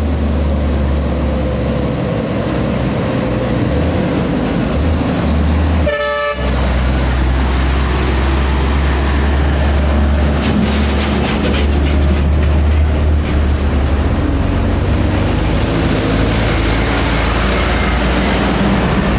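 Heavy truck's diesel engine running with a loud, steady low rumble as it creeps past on a climb. A short horn toot sounds about six seconds in.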